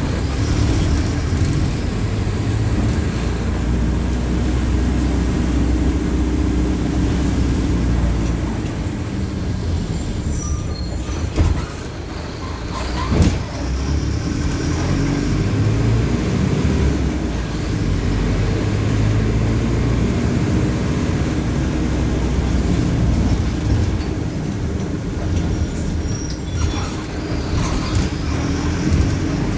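Mercedes-Benz OF-1519 BlueTec 5 bus's four-cylinder diesel engine running as the bus drives, the engine note rising and falling with speed. A few short clicks and knocks come through around ten to thirteen seconds in and again near the end.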